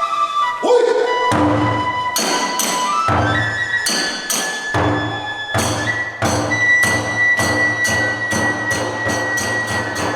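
Kagura festival music: a bamboo flute playing high held notes over drum beats and sharp strikes of small hand cymbals, the strikes coming faster toward the end.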